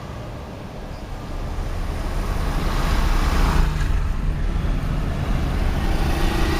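Storm wind gusting hard against the microphone, a rumbling buffet with a hiss of wind and rain over it. It swells about a second and a half in and stays strong.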